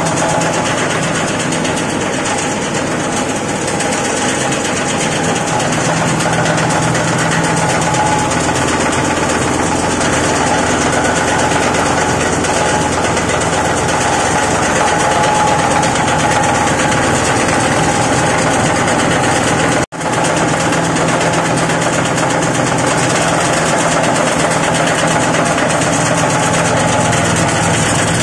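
Rag and fabric shredding machine running steadily with a constant mechanical drone and rattle. The sound drops out for an instant about twenty seconds in, then carries on unchanged.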